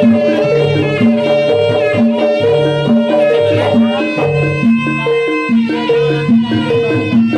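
Javanese traditional music: a short pattern of pitched notes repeating about twice a second over low drum beats, with one high note held throughout.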